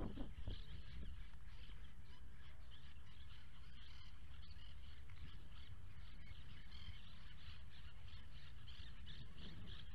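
Small birds chirping continuously in quick repeated notes, over a low steady rumble of wind on the microphone.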